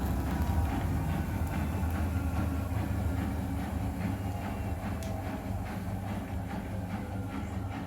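Laundry machine running with a steady low rumble and light irregular clicks as the drum turns, easing slowly quieter.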